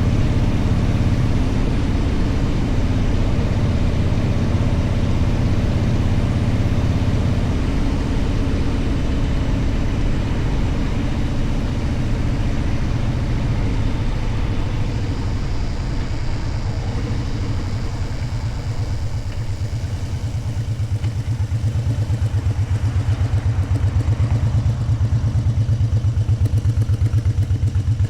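Motorcycle engine running under way with wind noise, then easing off past the middle of the stretch and settling into an idle with a steady low pulsing beat.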